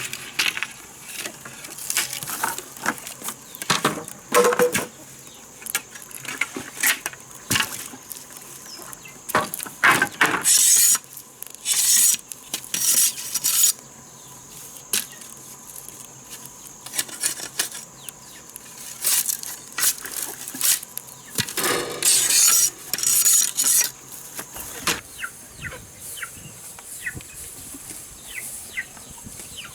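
Irregular knocks, clatter and short scraping bursts of wood being worked by hand; the knocking thins out to light ticks near the end.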